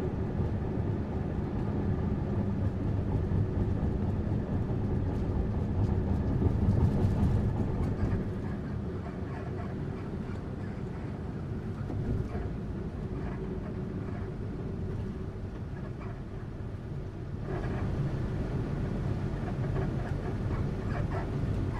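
Tourist bus running along the road: a steady low engine and road rumble that builds over the first seven seconds, eases off at about eight seconds, and picks up again near the end.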